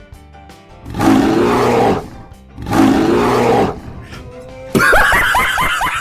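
Two loud cartoon animal roars, each about a second long, over light background music. Near the end comes a quick run of short, high, falling chirps.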